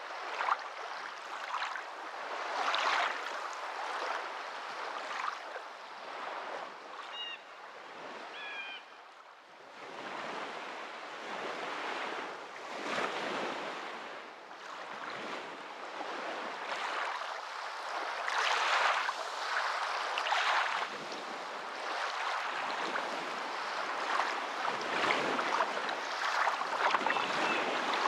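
Moving water, a steady rushing that swells and ebbs every few seconds. A few faint high chirps come about a quarter of the way in.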